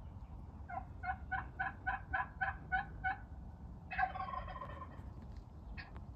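Turkey calling: a steady run of about ten yelps, some four a second, then about four seconds in a wild turkey gobble of about a second, and one short note near the end.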